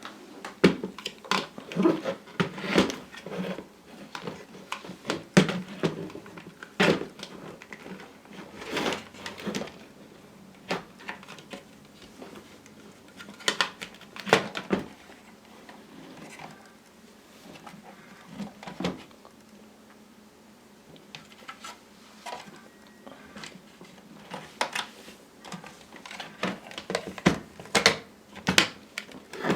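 Irregular clicks and knocks, one after another at uneven gaps, with no steady motor sound under them.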